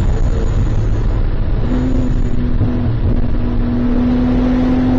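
Race car engine running at speed, heard from inside the car over a loud, steady rumble of road and wind noise. A steady engine tone comes in about one and a half seconds in and climbs slowly.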